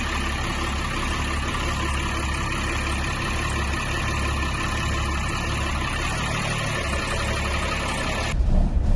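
Marine diesel engine running steadily at idle, drawing antifreeze through its raw-water cooling system during winterizing. About eight seconds in, the engine sound cuts off abruptly and gives way to wind rumbling on the microphone.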